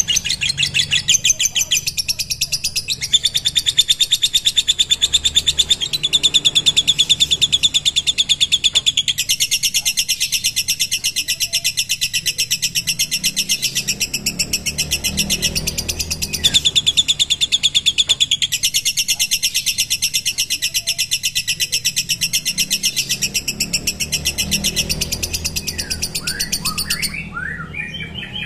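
Lovebird giving its long 'ngekek' song: a high, rapid chattering trill kept up without a break. Near the end the trill stops and gives way to a few separate chirps.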